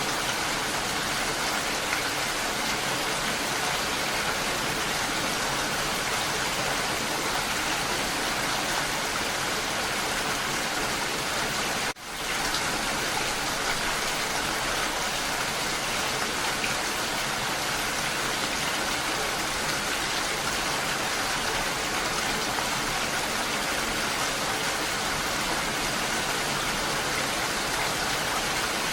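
Steady rain falling, an even patter that drops out for a split second about twelve seconds in, then resumes.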